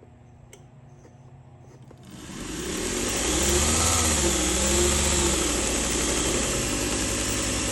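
Toolcker 1x30 belt sander switched on about two seconds in: the motor spins up, its pitch rising and dipping briefly, then runs steadily at about 1900 RPM with the hiss of the slack belt.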